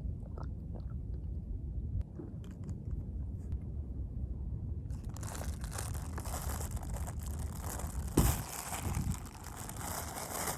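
Close handling noise with a steady low rumble underneath: about halfway in, dense rustling and crinkling starts, with one thump a little later as the loudest moment.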